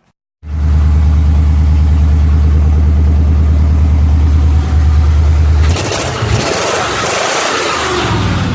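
Chevy truck engine running with no mufflers, a loud, steady low rumble that starts abruptly; about six seconds in it is revved, the sound turning into a brighter, rougher rush.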